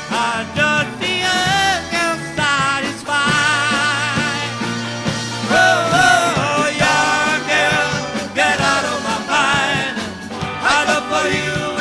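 A live band playing a rock-and-roll song: a melodic lead line with a wavering pitch over bass and drums.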